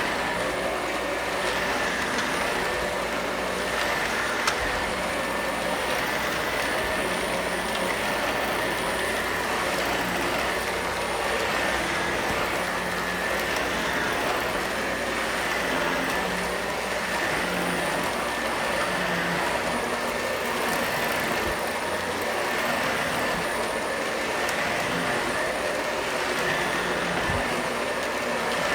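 Vacuum cleaner running steadily, a constant rushing noise with a high whine, swelling and easing slightly every couple of seconds.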